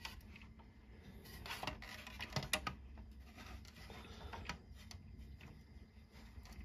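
Light, scattered clicks and handling noise of hard plastic toy parts as a toy tank's tow bar is hooked back on.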